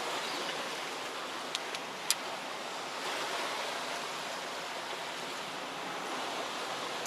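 Steady wash of sea surf on a rocky shore, with a couple of sharp clicks about two seconds in.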